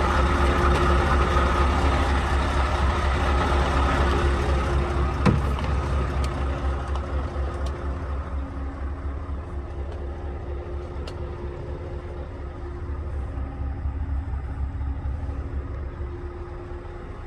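Scania S730's V8 diesel engine running, a steady low rumble that gradually grows quieter over the second half. A short sharp click about five seconds in.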